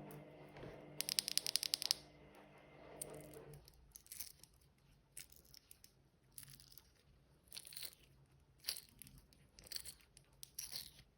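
Washing machine making odd noises: a steady hum that cuts off about three and a half seconds in, a rapid run of clicks early in the hum, then irregular short bursts of crackling noise.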